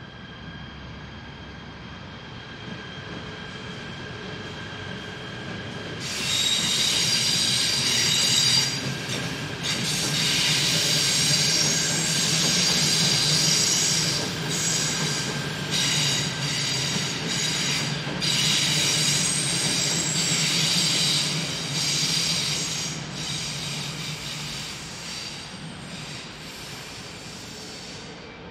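A KTM Komuter electric commuter train passes at close range, its wheels rumbling on the rails. From about six seconds in, a loud high-pitched wheel squeal sets in; it breaks off briefly a few times and fades as the train goes by.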